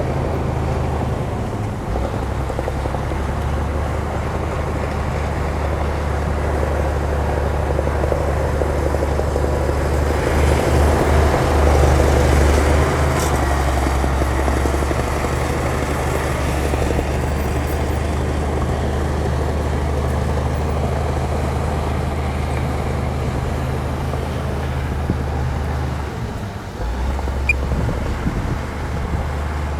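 Bulldozer's diesel engine running steadily under work, growing louder for a few seconds about a third of the way in, then settling back, with a brief drop in engine note near the end.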